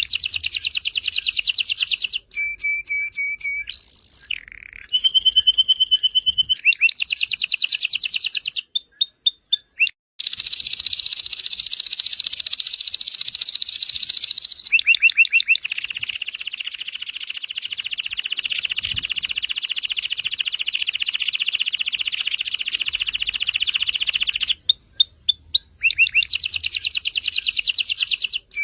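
Domestic canary singing a continuous song of fast trills and repeated chirping phrases, with two long unbroken rolling trills in the middle, one about four seconds long and one about nine seconds long.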